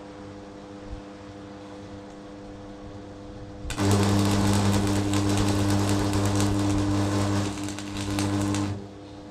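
A restored DeWalt electric hammer switched on under test: its motor and hammer mechanism run loudly and rapidly for about five seconds, dip briefly near the end, then stop suddenly. A faint steady hum is heard before it starts.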